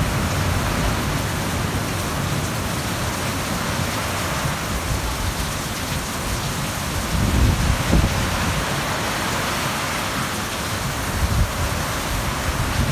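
Heavy rain pouring down steadily in a thunderstorm, with a short low rumble about seven or eight seconds in.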